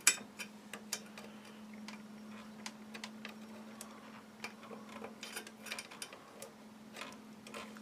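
Scattered small clicks and ticks of a tool picking at an old amplifier circuit board, peeling up copper pads that have come loose from the board, over a faint steady hum.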